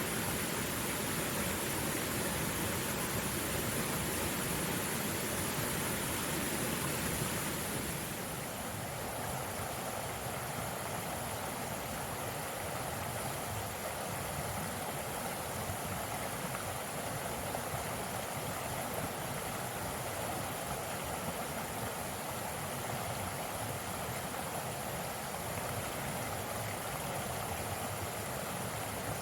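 Forest mountain stream flowing, a steady rush of water; about eight seconds in it becomes slightly quieter and its tone shifts a little.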